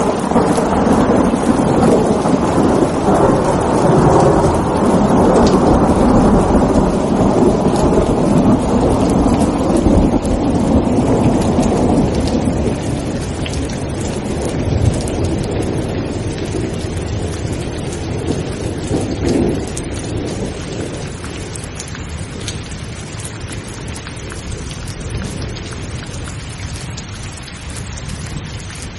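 Thunderstorm: heavy rain hissing steadily while a long roll of thunder rumbles for about the first twelve seconds and then slowly dies away, with a smaller swell of rumble about nineteen seconds in.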